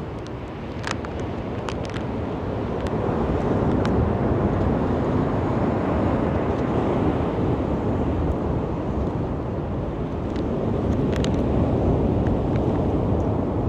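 Waves washing onto a beach: a steady rush of surf that swells twice, with a few faint short high clicks.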